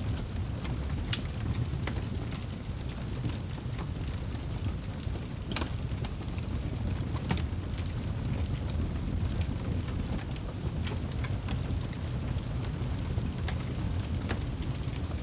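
Wood fire crackling, with irregular sharp pops over a steady low rumble; a few louder pops stand out, about a second in and around the middle.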